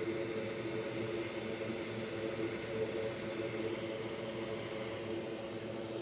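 Hot air rework station blowing: a steady whir of airflow with a hum of a few steady tones.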